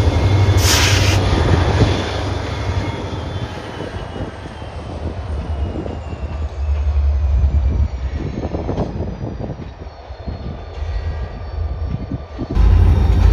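Light-power EMD diesel locomotives (SD40-2s and a GP39-3) running along the branchline, fading as they move away, with a thin high tone that slowly falls in pitch. A heavy low rumble of wind on the microphone runs underneath and jumps up sharply near the end.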